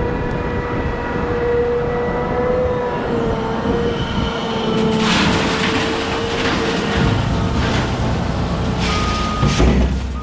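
Cat 972M XE wheel loader working, with a steady whine. From about five seconds in, louder rough noise joins it, and a short steady beep sounds near the end.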